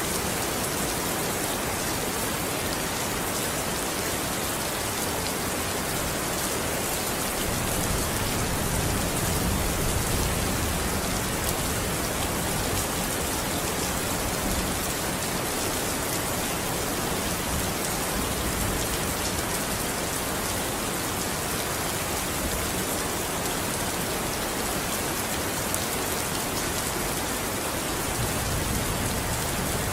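Steady rain falling, an even hiss with a soft patter of drops.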